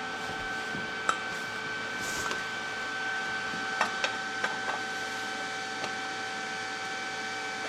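Steady electrical hum of several even tones, with a handful of light sharp clicks and taps from stainless steel pipe pieces being handled, most of them bunched between about four and five seconds in.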